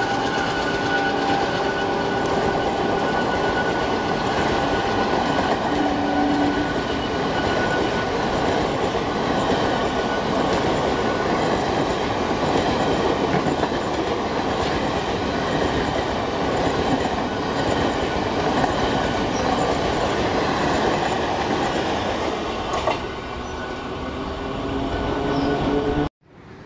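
Indian Railways passenger coaches passing at speed: a loud, steady rush and clatter of wheels over the rails. It drops off suddenly near the end as the train clears.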